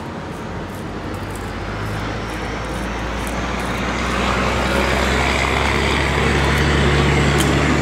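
An engine running steadily and growing louder over the second half, with a faint high whine that slowly falls in pitch near the end.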